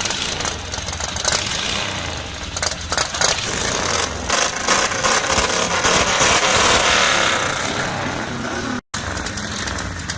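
Harley-Davidson Ironhead Sportster's V-twin engine being revved: quick throttle blips in the first few seconds, then a longer held rev through the middle before it settles back down. The sound cuts out for an instant near the end.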